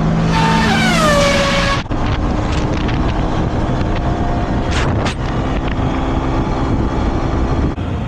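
Sportbike engine running under way, with wind rushing over the microphone. In the first two seconds it is loudest, its pitch falling as the revs drop, then it settles to a steady run.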